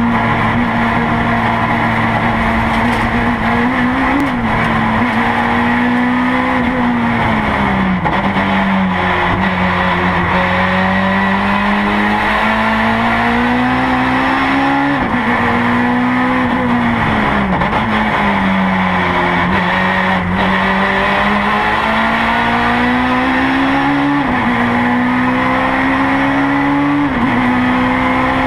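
Honda S2000 race car's four-cylinder engine heard from inside the cockpit at full attack, the revs climbing steadily and dropping sharply at each upshift. Twice it falls away to a lower note under braking and then pulls back up.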